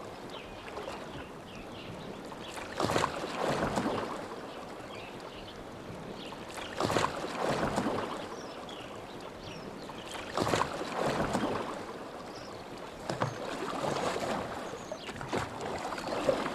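Oars dipping and pulling through lake water as a rowboat is rowed: a splash and wash at each stroke, about every three and a half seconds, over the gentle lap of water against the hull.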